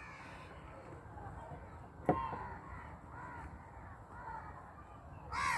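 Faint bird calls outdoors: a series of short calls, the loudest near the end, with a sharp tap about two seconds in.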